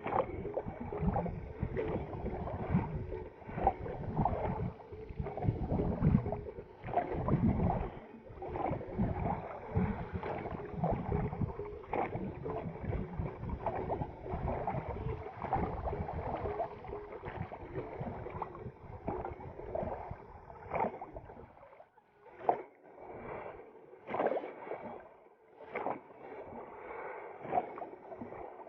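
A boat being rowed down a river: irregular strokes and splashing in the water. The strokes become sparser and more separate near the end.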